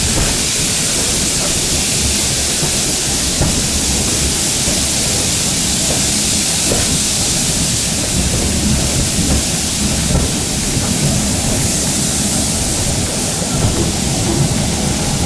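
Heritage steam train running along the line, heard from a passenger coach: a steady low rumble of the wheels on the rails under a loud, even rushing hiss.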